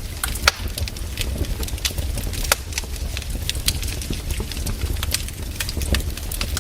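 Firewood burning, crackling with irregular sharp pops over a low, steady rumble.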